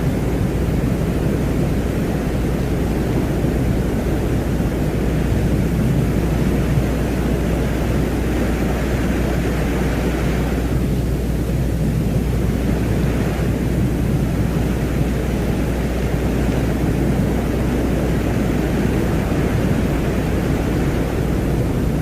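Steady low drone of noise with a windlike hiss above it that swells for a few seconds near the middle: an ambient soundscape presented as the sound of the planet Venus.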